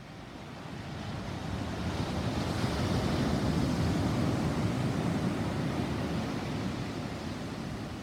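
Rolling thunder: a low rumble that swells over about three seconds, peaks midway, then slowly dies away.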